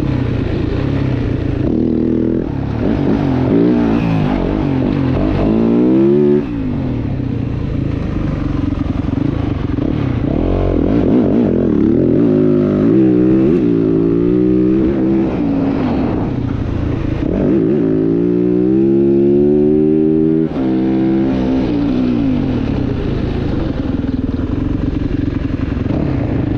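Dirt bike engines running and revving, the pitch climbing and falling over and over. Twice a long climb in pitch ends in a sudden drop-off, about six seconds in and again about twenty seconds in.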